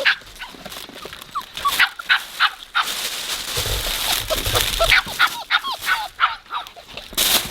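Puppies giving short high yips and whines while they play, with bursts of scuffling noise, the loudest near the end.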